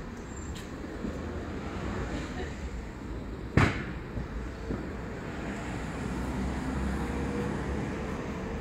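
Steady low background rumble with a single sharp knock about three and a half seconds in and a fainter click about a second later.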